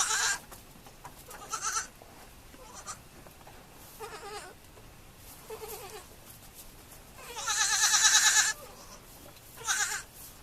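Goat kids bleating: about six separate quavering bleats, the longest and loudest lasting over a second about three-quarters of the way through.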